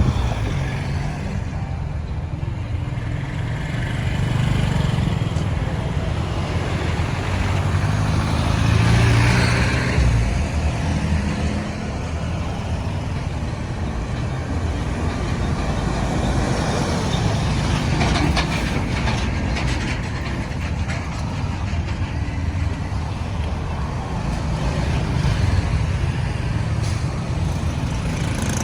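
Road traffic going by: engines and tyres of passing trucks, cars and motorbikes, a continuous low rumble with one vehicle passing louder about a third of the way in.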